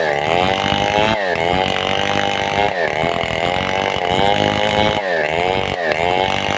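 Stihl 070-type two-stroke chainsaw running at full throttle while ripping a log into planks. Its engine pitch drops sharply and climbs back every second or so as the cut loads it and frees it.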